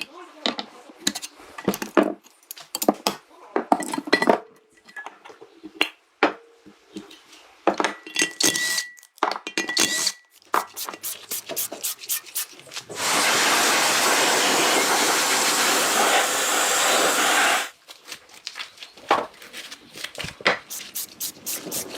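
Repeated sharp clinks and knocks of hard objects being handled. Midway a steady hiss lasts about five seconds and cuts off suddenly.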